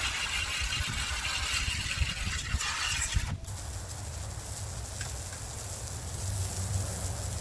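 Running water splashing over deer meat as it is rinsed, a steady hiss with a brief break about three and a half seconds in.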